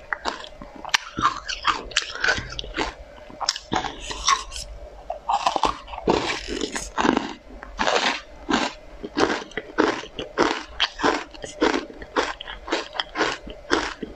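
Close-miked crunchy bites and chewing of a pink spoon-shaped candy dusted in green powder, a quick run of crisp crunches about two a second.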